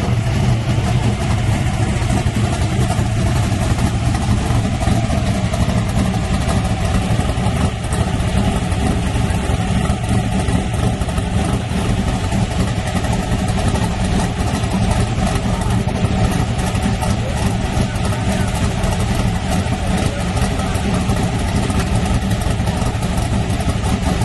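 Drag-race truck's engine idling loudly and steadily, without revving.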